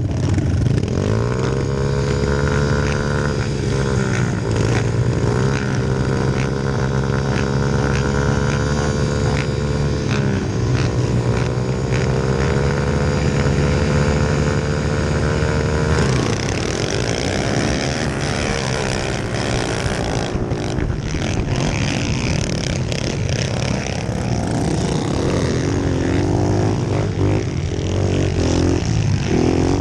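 Pit bike engine running at race pace, its pitch climbing and dropping again and again as the throttle is opened and shut. From about halfway through the sound turns more jumbled, with clicks and knocks over the engine.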